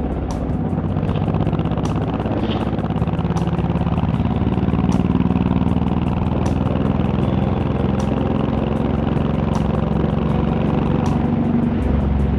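Honda VTX1800's big V-twin running steadily at cruising speed, its exhaust swelling slightly about four seconds in.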